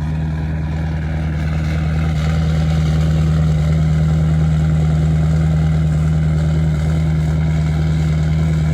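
Ford 6.7 L Power Stroke V8 turbo-diesel idling steadily while still cold after a -24 °F start without a block heater; it gets a little louder about two seconds in.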